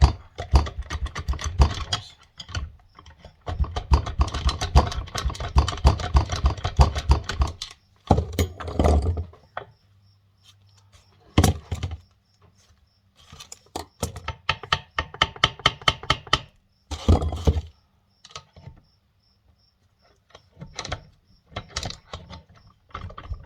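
Rapid metal-on-metal tapping and clicking in repeated bursts, with short pauses between them, as a bevel gear and bearing are worked loose from a tractor's front final drive housing.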